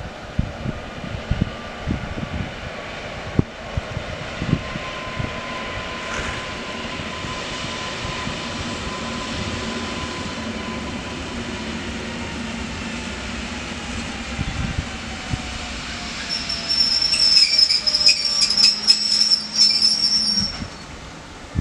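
Electric multiple unit passenger train approaching and passing, a motor whine slowly falling in pitch as it comes by. From about sixteen seconds in, a loud high-pitched wheel squeal with rapid clicking of wheels over the rails as the carriages pass, cutting off suddenly near the end. Low wind buffets on the microphone in the first seconds.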